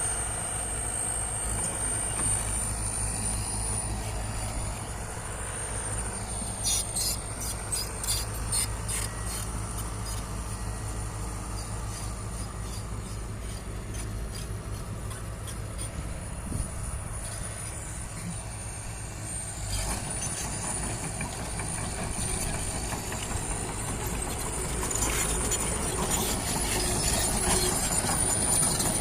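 Heavy diesel earthmoving machinery (excavator and bulldozer) running steadily, with a quick run of clicking knocks about seven seconds in, growing louder near the end.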